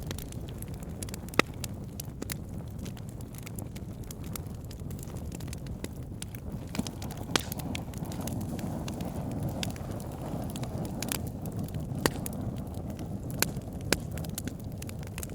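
Wood fire burning, crackling logs: a steady low rush of flame with irregular sharp pops and snaps, a few louder ones standing out.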